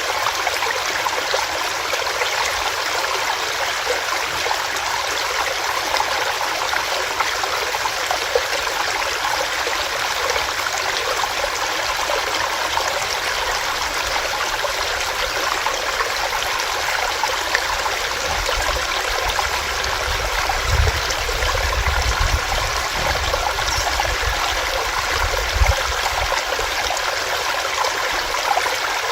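Small stream running over rocks: a steady, even rush of water. A low rumble comes and goes in the second half.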